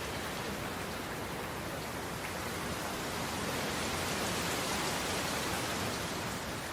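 A steady, even hiss of noise with no tone in it, growing a little louder in the middle.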